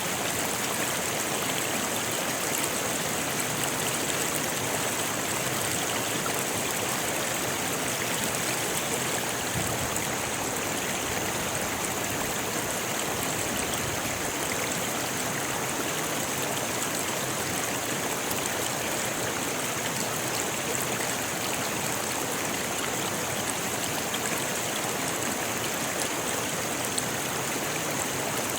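Rocky river flowing steadily, water rushing and splashing over stones in an even, unbroken stream.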